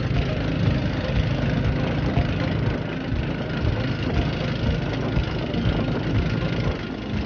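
Engine of a bangka outrigger motorboat running steadily under way, with a steady hiss over it.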